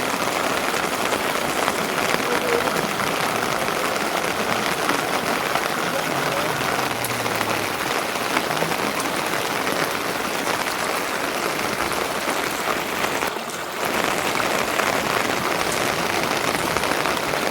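Steady rain falling, an even hiss with fine scattered drop ticks. It dips briefly about three-quarters of the way through.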